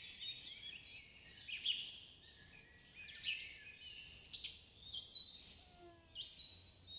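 Many birds chirping and calling over one another, a busy stream of quick, high, downward-sweeping whistled notes.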